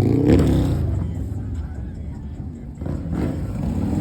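Car engine running and revving, with rising and falling pitch near the start, dying down through the middle and picking up loudly again at the end.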